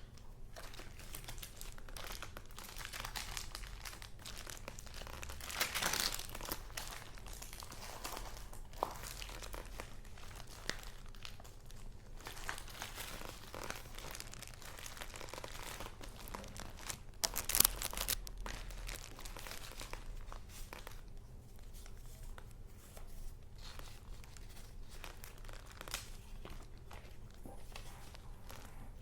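Paper goods being handled and shuffled: continuous rustling and crinkling, with louder crackles about six seconds in and again a little past the middle.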